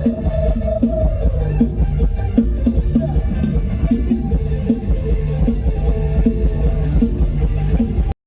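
Mor lam band playing without singing: a drum kit keeps a steady beat under bass and guitar. The music cuts off suddenly near the end.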